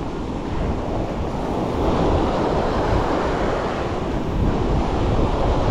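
Sea waves washing onto a beach, swelling a little about two seconds in, with wind buffeting the microphone.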